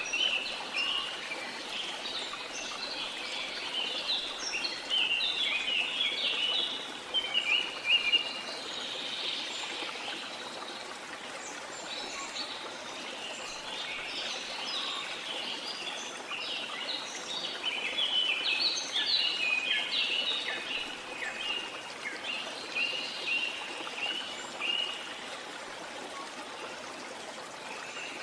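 Many birds chirping and calling in quick, overlapping phrases over a steady rush of flowing water. The bird calls thin out briefly around a third of the way in and again near the end.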